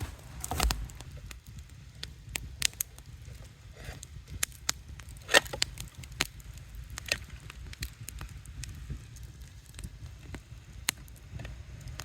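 Wood campfire crackling: irregular sharp pops and snaps, one louder about halfway through, over a steady low rumble.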